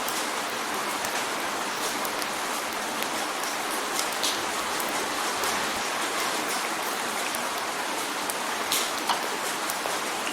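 Steady rain drumming on a window pane, a constant hiss with individual drops ticking sharply on the glass here and there.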